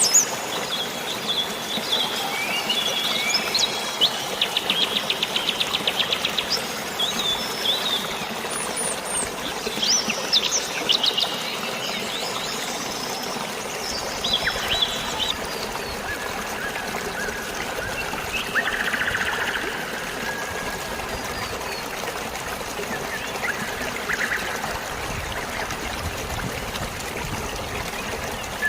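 Several birds chirping, with a rapid trill a few seconds in, over a steady hiss of light rain and flowing water. The bird calls come thickly at first and thin out to a few scattered calls in the second half.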